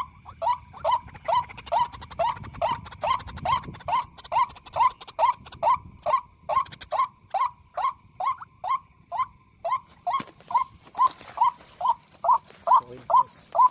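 White-breasted waterhen call played as an MP3 lure: one short falling 'kru-ak' note repeated steadily, a little over twice a second.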